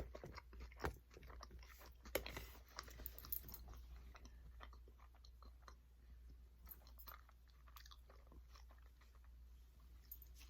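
Faint chewing of food with scattered small crunches and mouth clicks, a little stronger about two seconds in.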